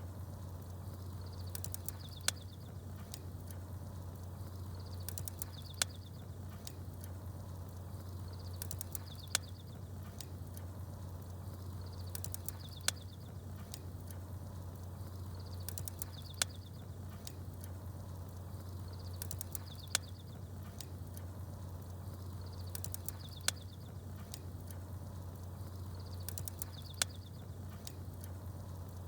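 Campfire crackling, with a sharp pop about every three and a half seconds over a steady low rumble. Small birds chirp in short bursts that recur on the same even cycle.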